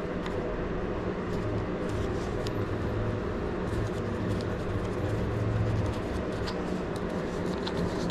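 Steady hum of an electric hot-air blower running, with light clicks and taps on top.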